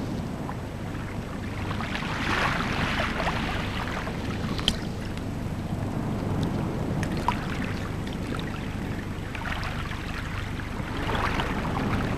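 Small waves washing in over shallow water at a shore: a steady wash that swells twice, a few seconds in and near the end, with a few faint small clicks.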